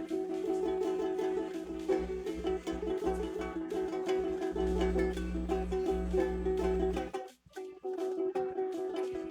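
A plucked acoustic string instrument played solo in a quick, repeating picking pattern, with a low hum underneath for several seconds. The playing breaks off briefly about seven seconds in, then picks up again.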